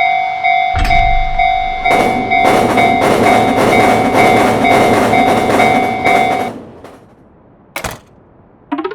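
Japanese railroad crossing alarm ringing in rapid repeated tones while a train rushes past with a rhythmic clatter. Both stop abruptly about six and a half seconds in. Near the end there is a short whoosh and then a quick rising cartoon glide.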